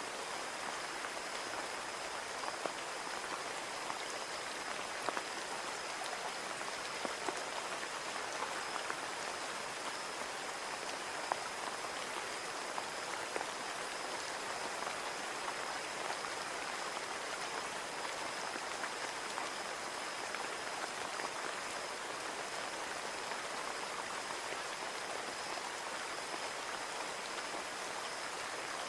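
Steady rain falling on a window pane: an even hiss with scattered sharper ticks of individual drops.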